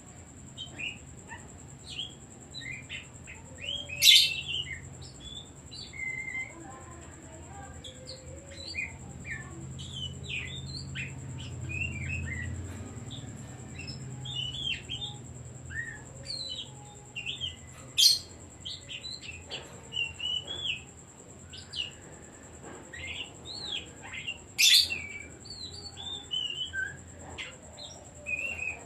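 Oriental magpie-robin (kacer) singing a continuous, varied string of short chirps and whistles, with three loud, sharp notes about 4, 18 and 25 seconds in.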